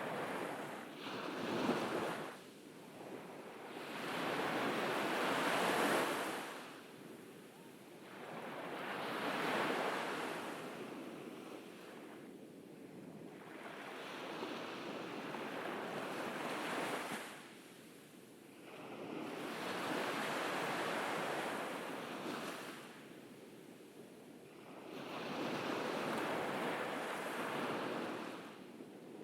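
Ocean waves breaking on a beach: about six rushes of surf, each swelling and fading over a few seconds, in a slow, even rhythm.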